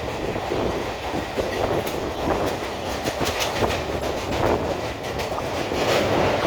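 Suburban electric local train running at speed, heard from on board: a steady rumble of wheels on rails, with a run of clicks and clatter from the wheels over rail joints in the middle.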